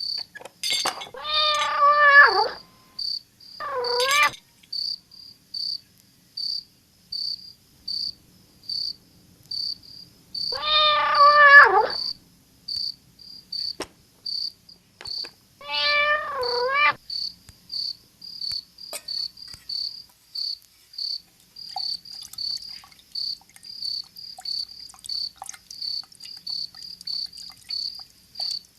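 A cat meowing four times in the first half, in long calls that bend in pitch. Under it a cricket chirps steadily, a little under two chirps a second.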